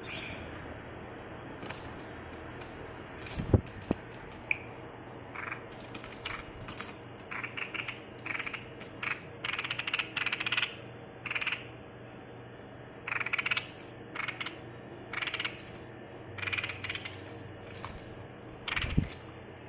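Chinese bulbul giving a series of short, harsh, rasping calls, often in quick runs. There is a sharp knock about three and a half seconds in and another near the end.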